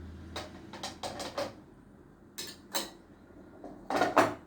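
Kitchenware being handled: a string of short clicks, taps and knocks of containers and utensils, the loudest pair about four seconds in.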